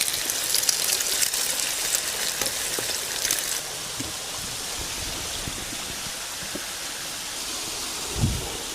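Steady rush of a waterfall. Over the first three and a half seconds a dense crackling sizzle sits on top of it, then cuts off suddenly; a single low thud comes near the end.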